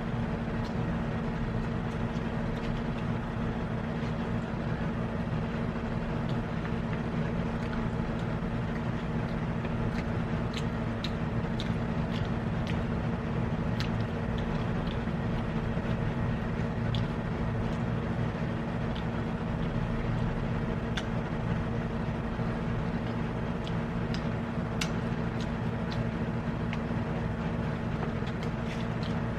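A steady low machine hum with several pitched lines to it, with scattered light clicks and taps over it.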